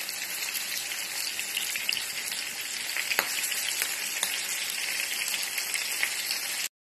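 A steady crackling hiss like sizzling, with scattered sharp clicks, that cuts off abruptly near the end.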